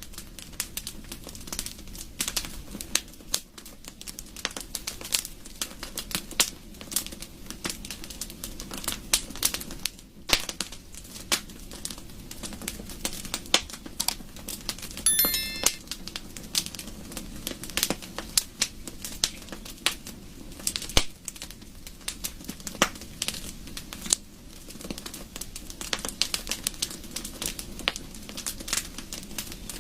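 Wood fire crackling in a fireplace: dense, irregular sharp pops and snaps over a steady low rumble of flames. There is a brief high chirping whistle about halfway through.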